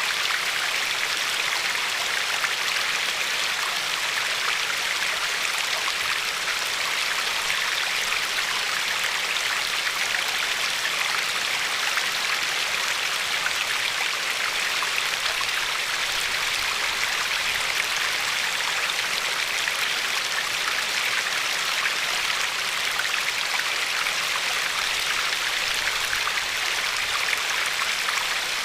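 River water flowing and lapping over a pebbly shore, a steady rushing hiss with fine crackling splashes.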